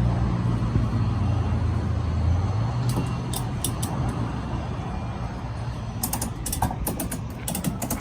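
A vehicle's low hum fades away over the first two or three seconds, followed by scattered sharp mechanical clicks and then a quick run of clicks near the end.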